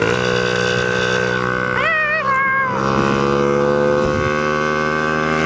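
Dirt bike engine running at a steady speed while riding, its pitch rising gently in the second half. About two seconds in, a short wavering yell from the rider.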